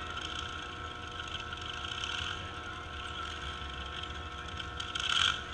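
Demolition derby trucks' engines running as they drive out onto the track, a steady rumble that swells louder near the end.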